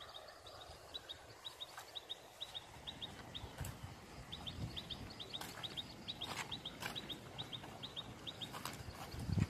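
Small bird chirping in a fast, even series of short high double notes, about three a second, over a low rumble of wind on the microphone that grows near the end, with a few scattered clicks.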